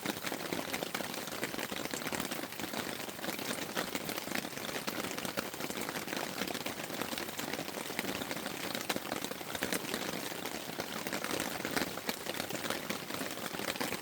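Steady rain falling on a tent, with many individual drop hits close by over a constant hiss.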